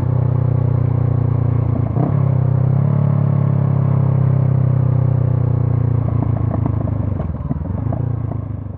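Honda CB500F's 471 cc parallel-twin engine running through a Mivv GP Pro stainless aftermarket exhaust. The note is steady, with a brief dip and a change in pitch about two to three seconds in. From about six seconds in it turns rougher and more uneven.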